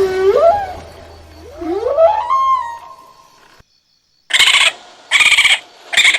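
Animal calls: two long cries that glide up and down in pitch, then, after a short gap, three short harsh noisy bursts.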